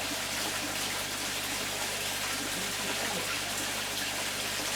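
Steady, even rush of running water, as from a garden pond's water feature, with a low hum underneath.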